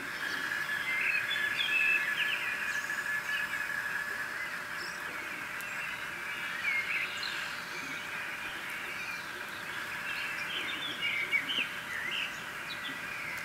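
Birds chirping, many short scattered calls, over a steady high-pitched drone that is strongest in the first half.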